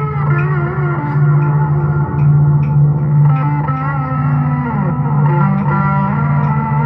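Electric guitar through a Dreadbox Disorder fuzz pedal playing a loop: a steady low droning note under higher fuzzed notes that bend and glide in pitch.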